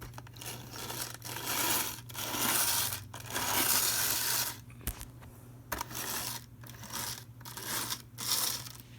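Model train locomotive running haltingly on the track, its motor, gears and wheels giving a rough grinding rattle that comes and goes in uneven spurts over a faint steady hum. The locomotive barely runs after long disuse, and its gears are packed with old grease.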